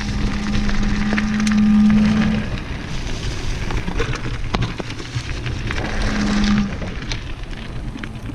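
Mountain bike rolling fast down a dirt trail: steady tyre and trail noise with scattered rattling clicks, and a low buzzing hum that sounds for the first couple of seconds and again briefly near the end.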